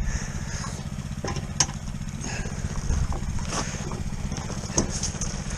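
Small single-cylinder Tillotson 212cc mini bike engine idling steadily, with a few sharp clicks and clinks over it.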